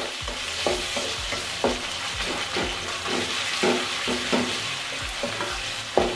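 Sliced onions and dried red chillies sizzling in hot oil in a metal karai, while a flat spatula scrapes and knocks against the pan as they are stirred, about three strokes a second.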